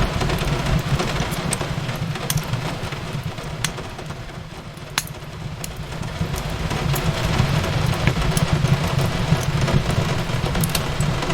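Crackling fireplace with sharp, scattered pops over a steady hiss of rain on a window and a low rumble; the mix dips a little quieter about four seconds in, then swells back.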